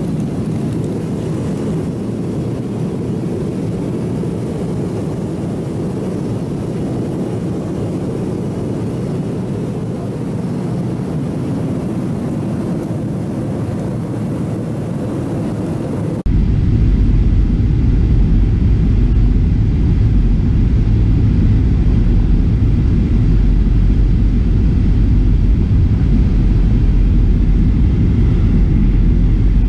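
Steady cabin noise of a Boeing 737-700 in flight, its engine and airflow rumble heard from a window seat. About halfway through it switches abruptly to a louder, deeper rumble.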